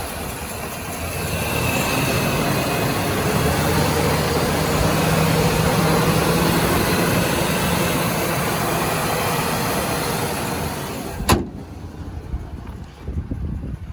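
2014 GMC Sierra 3500 HD pickup truck running steadily, an engine hum under a broad rush of noise that swells over the first few seconds. About eleven seconds in, a sharp click, after which the sound is much quieter.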